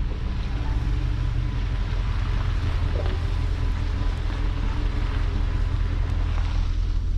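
Work truck's engine running steadily while salting a lot, a low drone heard from inside the cab.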